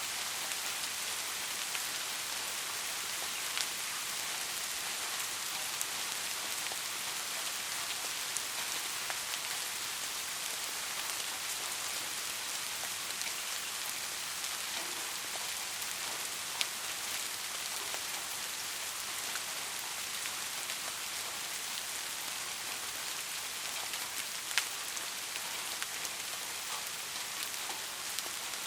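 Steady rain falling, an even hiss, with a few louder single drops ticking now and then.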